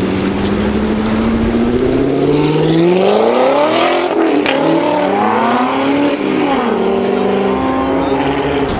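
A car accelerating hard, its engine note climbing and dropping back at gear changes, about twice, then holding steady.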